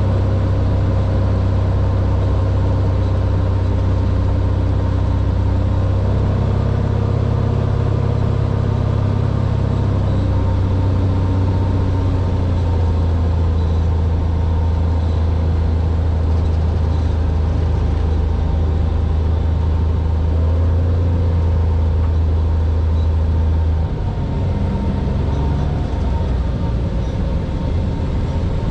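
Cessna 182R's six-cylinder Continental engine and propeller running with a steady drone. The pitch shifts slightly a few times, and about 24 seconds in the drone gets a little quieter and lower as the power changes.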